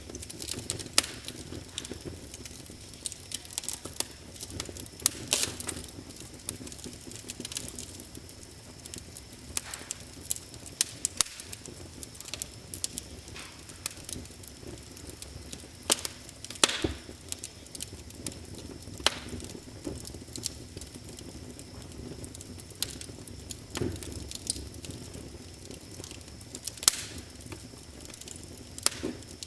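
Wood fire crackling in a fireplace: irregular sharp pops and snaps, a few much louder than the rest, over a soft low rush of the flames.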